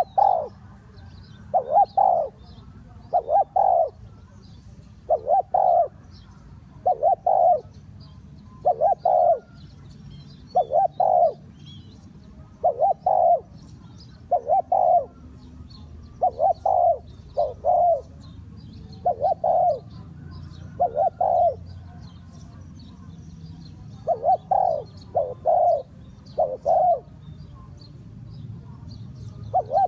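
Spotted dove cooing over and over, in short phrases of two or three low coo notes about every two seconds.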